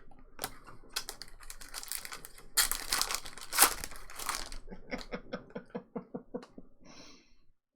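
Foil trading-card pack being torn open and crinkled, loudest in the middle, followed by a quick run of light clicks as the cards are handled.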